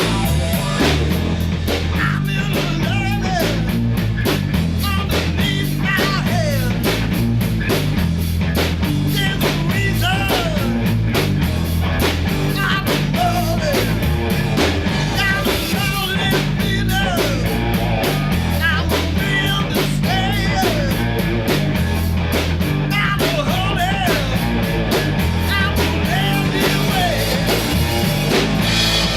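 A three-piece rock band playing live, with loud electric guitar, a drum kit keeping a steady beat, and singing. It is recorded with a single microphone in the middle of a small room.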